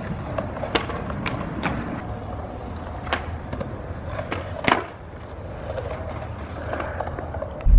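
Skateboard wheels rolling on concrete with a steady rumble, broken by several sharp clacks of the board, the loudest a little before 5 seconds in.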